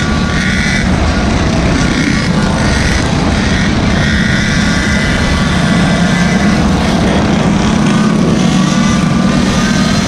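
Small gas engines of Gopeds and mini bikes running on a group ride: a steady, loud drone with faint pitched tones that drift up and down.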